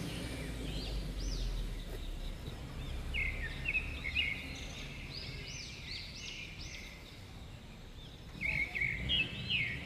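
Small birds chirping in short repeated high notes, in little clusters about a second in, around three to four seconds in, and again near the end, over steady outdoor background noise.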